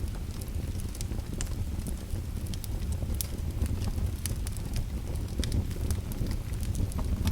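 Wood fire burning in a fireplace: a steady low rumble of the flames with frequent sharp crackles and pops scattered irregularly.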